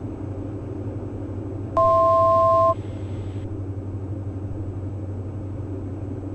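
Steady drone of a Diamond DA42 NG's twin Austro AE300 diesel engines in flight. About two seconds in, a loud two-tone electronic beep sounds for about a second, then cuts off.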